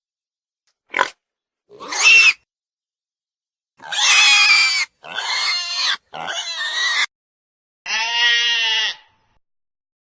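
Pig sounds: two short oinks, then three harsh squeals of about a second each, ending with one longer call with a wavering pitch about eight seconds in.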